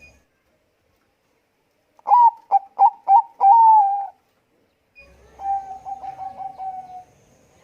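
Zebra dove (Bangkok perkutut) cooing: about two seconds in, one loud phrase of four or five short clipped notes ending in a longer drawn note, then after a short pause a softer run of quick, rapidly repeated coo notes.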